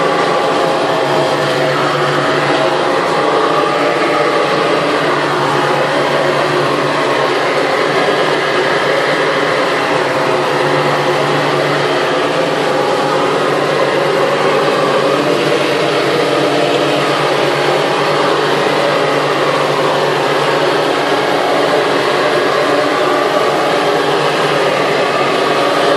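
Hoover Model 300 upright vacuum cleaner running steadily, its motor and fan giving a continuous whine that wavers slightly in pitch.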